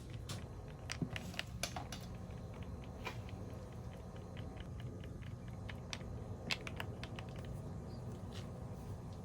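Spoon clinking against a glass: irregular light clicks, with a quicker run of small taps around the middle.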